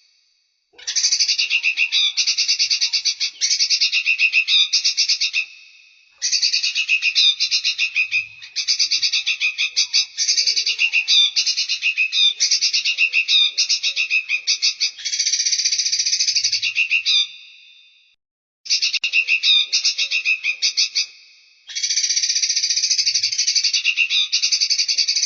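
Recorded songbird song: loud phrases of rapid, buzzy pulsed trills, each lasting a few seconds, with brief pauses between them.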